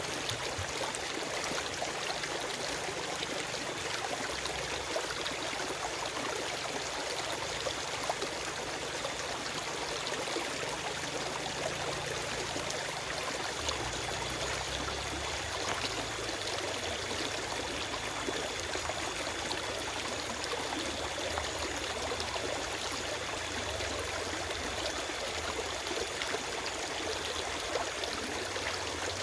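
Forest stream flowing steadily, a constant rush of water with small splashes and trickles over stones.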